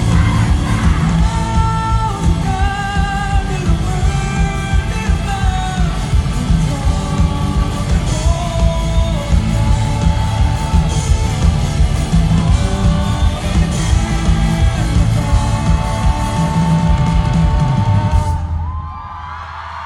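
A live rock band playing in a large hall, with drums, bass and guitars under sung vocals and shouts. The music cuts off about a second before the end, leaving the hall ringing with crowd noise.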